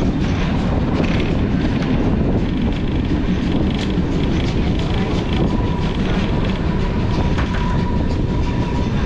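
Passenger train of Umbauwagen carriages rolling along the track with a steady rumble and clickety-clack over the rail joints. A faint thin squeal comes in about halfway through and holds to the end.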